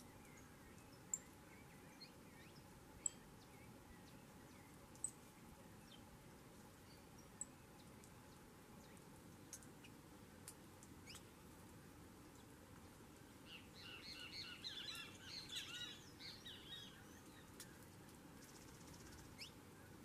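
A rufous hornero calling: a burst of rapid, chattering chirps from about thirteen to seventeen seconds in. Before it there is a faint background with a few sharp high ticks about two seconds apart.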